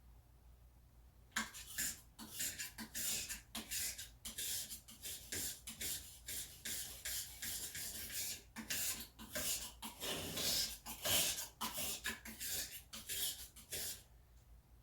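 Steel knife blade pushed forward again and again across the wet 6000-grit face of a water-soaked whetstone: a quick, uneven series of scrapes, about two or three a second, starting about a second and a half in and stopping shortly before the end.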